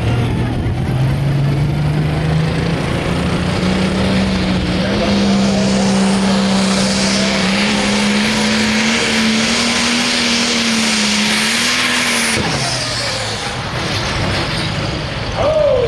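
Diesel pulling tractor running at full power under load: the engine note climbs over the first few seconds, holds high and steady, then drops suddenly about twelve seconds in as the engine is backed off.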